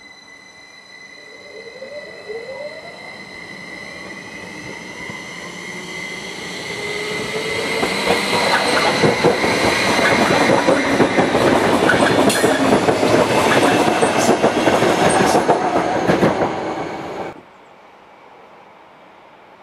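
SBB double-deck S-Bahn commuter train approaching and running past close by, with a steady high electric whine as it nears. The sound grows louder as the cars go by, clattering over the rail joints, then cuts off abruptly near the end.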